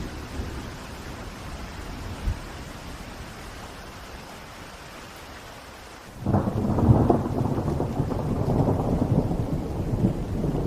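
Steady rain hiss, then about six seconds in a loud rumble of thunder breaks in and keeps rolling over the rain.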